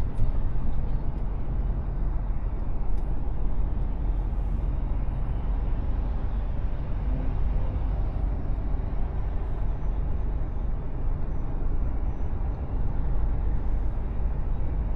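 Mercedes-Benz Actros truck driving: a steady low rumble of diesel engine and road noise, with a brief sharp click right at the start.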